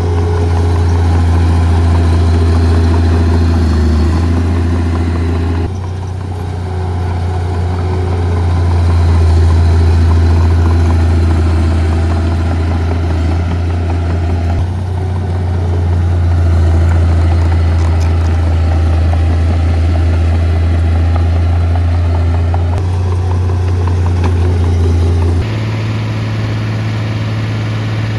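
Heavy diesel engines of earth-moving equipment running in a steady low drone, with the sound changing abruptly in pitch and loudness a few times.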